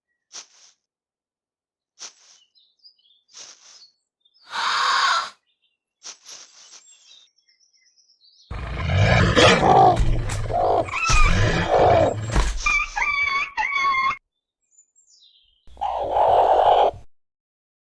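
Animal fight sound effects for a dinosaur and a wolf. There are short snaps and a brief roar, then a long stretch of deep roaring and snarling that ends in high, chirping screeches, and one more roar near the end.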